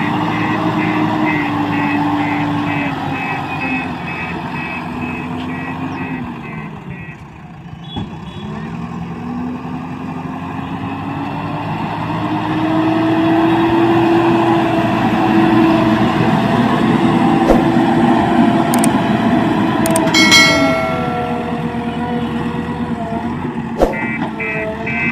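Diesel engine of a JCB backhoe loader working under load, its pitch rising and falling as it revs. A reversing alarm beeps in rapid pulses for the first six seconds and again near the end, and a brief high tone sounds about twenty seconds in.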